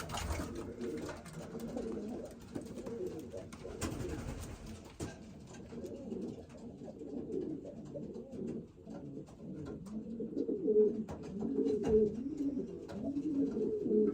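Several racing pigeon cocks cooing in an enclosed loft, their low rolling coos overlapping and growing busier in the second half, with scattered light clicks and scuffs.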